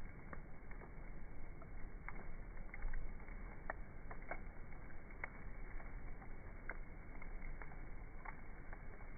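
Wood campfire burning, crackling with irregular sharp pops over a steady low rush of flame.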